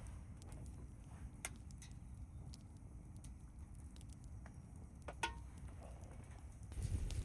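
Wind rumbling on the microphone, with scattered small clicks and crackles and one sharper click about five seconds in. The wind gusts louder near the end.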